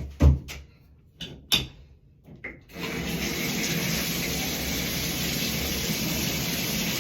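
A couple of knocks, the loudest a low thump near the start, then water turned on from a tap about three seconds in and running steadily.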